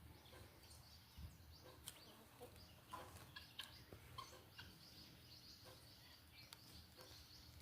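Faint birdsong: scattered short chirps and whistled notes, most likely from a sabiá (a Brazilian thrush), over a steady low background noise.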